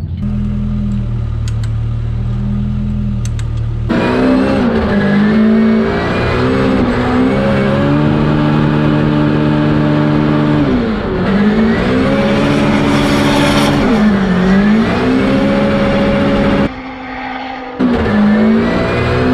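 Nissan Silvia S15 drift car's engine revving hard and dropping back again and again through a drift run, its pitch rising and falling. A steady low hum comes before it for the first few seconds.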